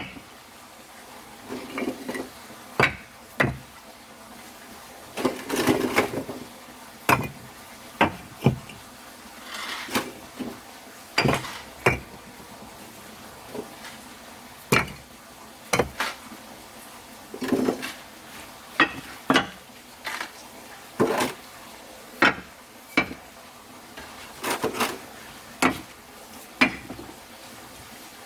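Irregular sharp knocks and clinks of hard objects, roughly one a second, some followed by short scrapes.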